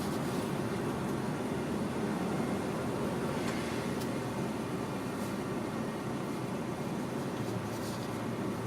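A car's engine running steadily, a low even rumble heard from inside the cabin, with a few faint clicks.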